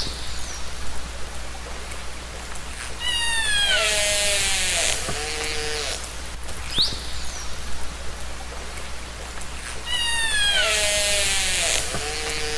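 Killer whale (orca) calls recorded underwater: stacked calls that fall in pitch and short sharp upward-sweeping whistles, with a loud hiss twice. The same sequence repeats about every seven seconds.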